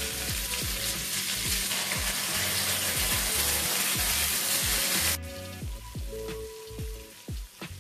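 Chicken drumsticks sizzling in hot butter in a frying pan as a wet ground masala paste is scraped in on top. The sizzle is loud, then drops off sharply about five seconds in, with background music underneath.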